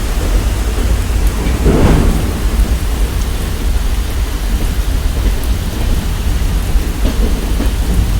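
Moving passenger train heard from on board: a steady low rumble with a swell about two seconds in.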